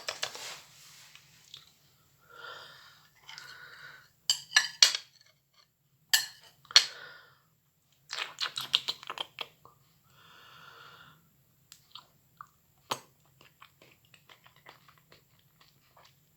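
A person chewing and eating a soft, microwave-cooked apple: irregular wet mouth clicks and smacks in clusters, with a couple of breaths between bites.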